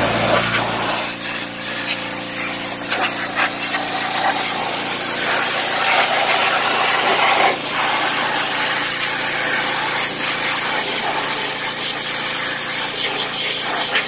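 Pressure washer running, its high-pressure water jet spraying and hissing against the engine bay, with a steady motor hum underneath and the spray rising and falling as it moves over surfaces.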